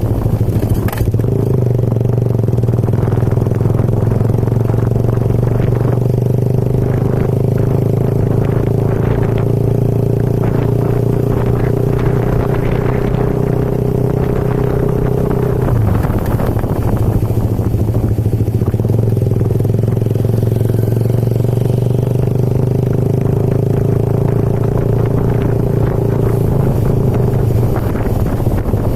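Motorcycle engine running at a steady cruising speed while being ridden. The engine note drops off briefly about halfway through, then picks up and holds steady again.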